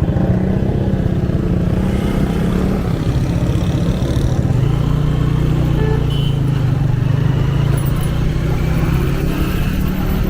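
A 125cc motorcycle engine running steadily under way, its pitch easing a little lower about three seconds in.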